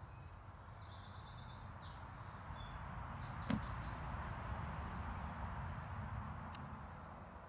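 Small birds twittering in a run of short high chirps over a low steady background rumble. A single soft knock about three and a half seconds in, as a small wooden figure is set down on a cloth-covered table.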